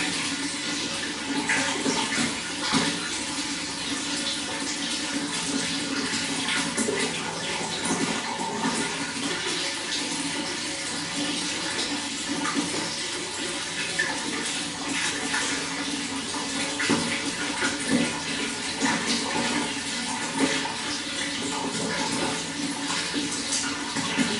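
Running water flowing and splashing steadily, with frequent small splashes and gurgles over a continuous rush.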